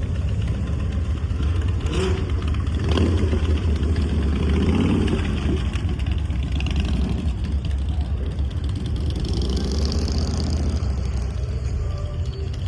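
Vehicle engines running at close range, a steady deep low note, swelling louder about three to five seconds in.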